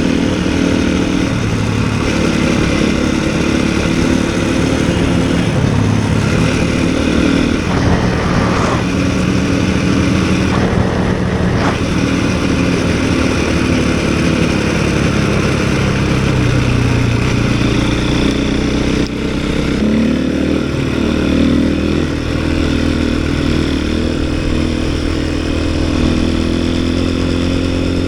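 A snowbike's 450cc single-cylinder four-stroke engine running under way, its revs rising and falling through the ride.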